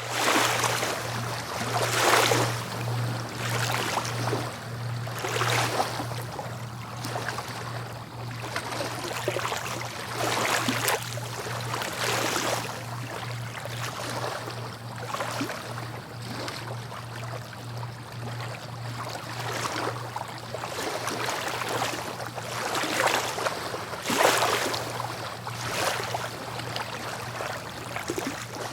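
Sea waves breaking on the shore, a surge of wash every few seconds, the strongest a couple of seconds in and again near the end. A steady low hum runs underneath.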